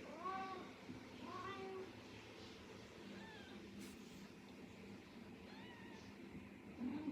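Kittens mewing: short, high, arched meows, two clear ones in the first two seconds, then fainter ones spaced out, and a lower, shorter call near the end.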